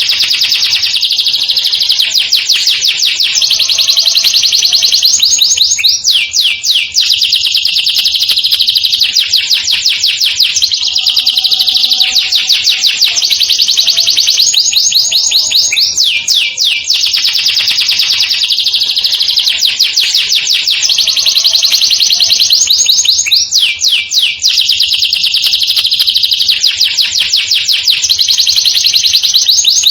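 Domestic canary singing without pause: long, very fast high-pitched trills (rolls) and rapid runs of repeated notes, switching to a new trill every few seconds.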